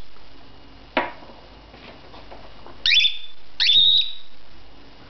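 Male cockatiel giving two shrill screams close together, each sweeping up and then holding a high pitch: angry, territorial screeching. A sharp knock comes about a second in.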